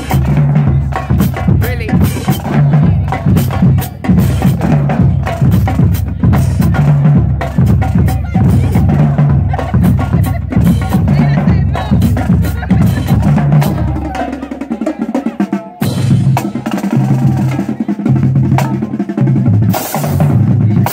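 Drumline playing a fast, loud cadence, with dense snare strikes over pitched bass drums pounding out a rhythm. The bass drums drop out about fourteen seconds in for a short break, then come back in.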